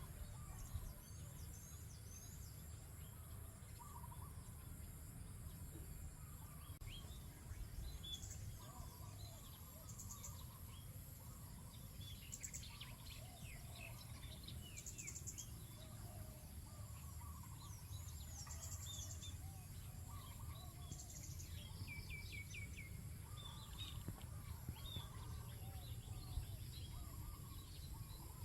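Many small birds chirping and twittering in quick, short notes, with lower calls mixed in, over a steady low rumble.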